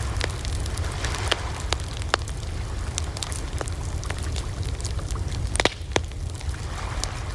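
Wood campfire crackling: scattered sharp pops and snaps over a steady hiss and low rumble, with two louder pops about five and a half and six seconds in.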